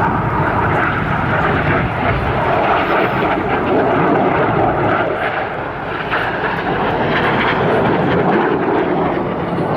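Loud, steady rushing jet noise of the Red Arrows' BAE Hawk T1 jets' turbofan engines flying overhead, swelling gently and easing.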